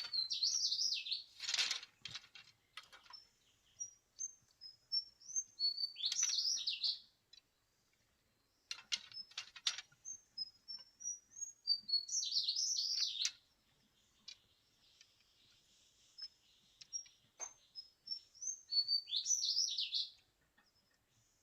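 A songbird singing, repeating a short, quick warbling phrase about every six seconds, with single thin whistled notes in between. A few sharp clicks come in a cluster around the middle.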